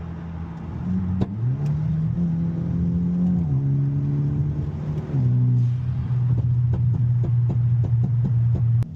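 Hyundai Elantra N's turbocharged 2.0-litre four-cylinder engine pulling away under acceleration: the revs rise about a second in, then drop in two steps as it shifts up, running louder after the second shift. A run of short sharp cracks sounds over the last few seconds, and the sound cuts off suddenly near the end.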